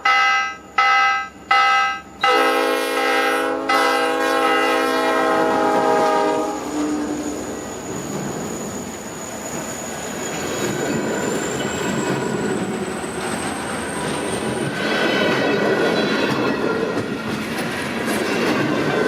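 Alaska Railroad diesel locomotive's chime horn sounding three short blasts and then a long one. The train then rumbles past with wheels clattering on the rails and a thin, slowly rising wheel squeal.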